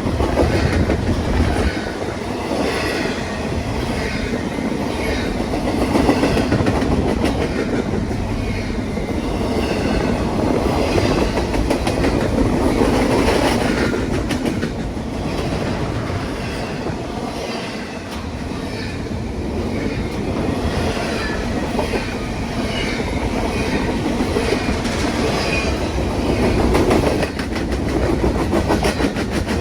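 A train rolling past, its cars' wheels clattering over the rails in a steady run, with occasional faint wheel squeal.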